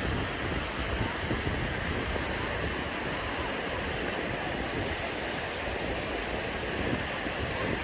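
Sea surf washing steadily onto a beach: an even, continuous rush of breaking waves.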